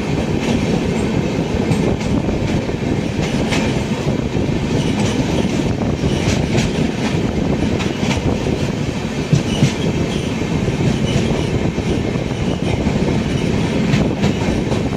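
Rajyarani Express train running along the track: a steady rumble of wheels on rail, with scattered sharp clicks from the rail joints.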